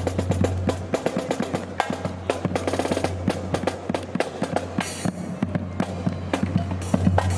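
Marching band drum line playing a cadence: rapid snare drum strokes and rolls with bass drum hits, over a steady low rumble.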